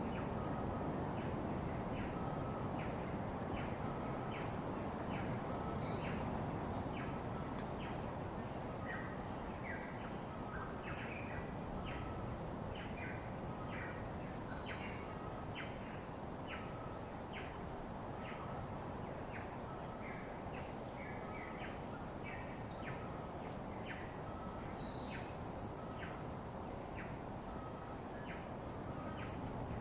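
Birds calling: quick repeated chirps about twice a second, and a high call dropping in pitch every eight to ten seconds. Under them is a steady hiss of background noise and a constant high tone.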